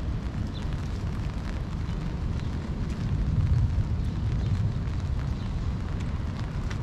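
Rain falling, with a steady low rumble that swells briefly about halfway through and scattered taps of drops.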